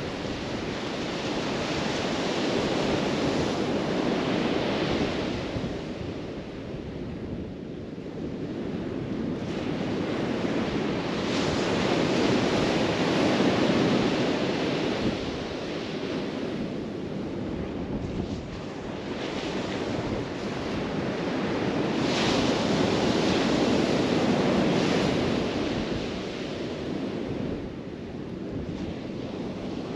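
Surf breaking and washing up the beach, swelling and ebbing in slow waves roughly every ten seconds, with wind buffeting the microphone.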